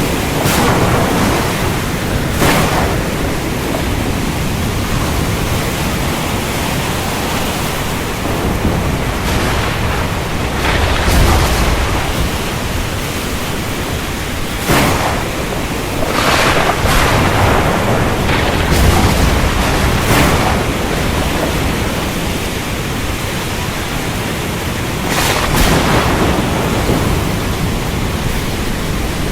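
Steady, heavy rain hiss with thunder: several sharp cracks and two deep rolling rumbles through the storm.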